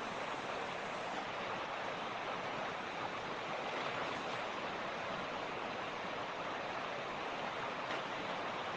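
Mountain creek water rushing over rocks, a steady, even splashing flow.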